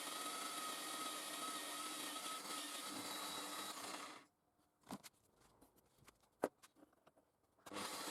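Steady motor whir with a faint high whine. It cuts out abruptly about four seconds in, leaving near silence with a few faint clicks, then starts again near the end.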